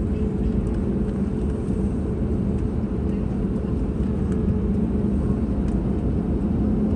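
Airbus A320neo cabin noise: a steady low rumble of the engines and airflow with a constant hum underneath, heard from inside the passenger cabin.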